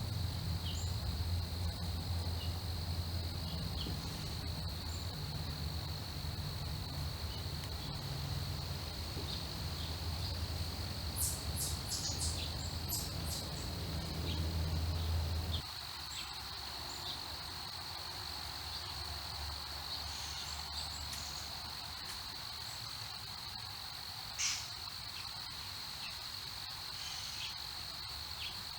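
Crickets trilling in a steady, unbroken high chorus. A low rumble underneath cuts off abruptly about halfway through, and a few brief high chirps come just before that.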